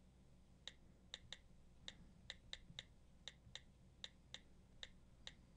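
Faint key clicks of an iPad's on-screen keyboard, about a dozen identical clicks at uneven spacing as a word is typed letter by letter.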